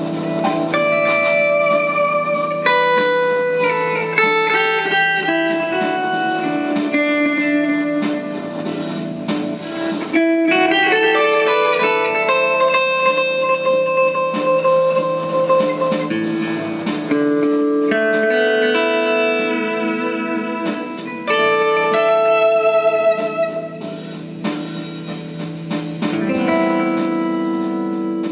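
Solo guitar playing a melodic instrumental line of single notes and held tones over sustained low notes.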